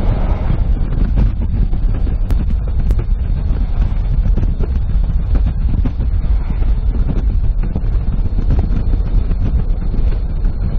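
Moving car's steady low road rumble, with wind buffeting the microphone.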